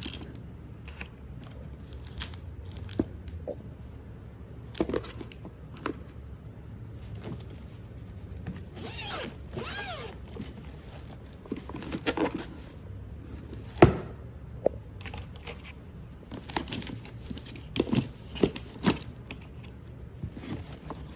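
Hard-shell hair dryer travel case being handled: scattered clicks, rustles and scrapes, a longer drawn-out rubbing sound about nine seconds in, and one sharp knock about fourteen seconds in.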